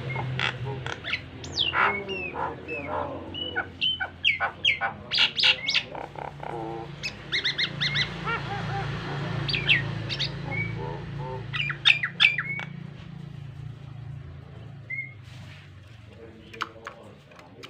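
Nias hill myna singing: a rapid run of loud whistles, rising and falling glides and harsh squawks, thinning out over the last few seconds, over a steady low hum.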